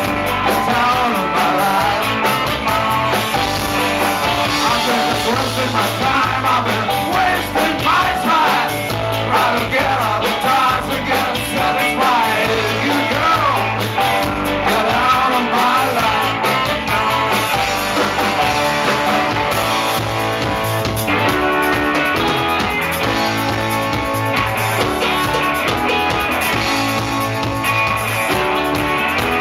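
Rock band playing a song: guitars and bass over a drum kit, with a wavering lead melody line through the middle.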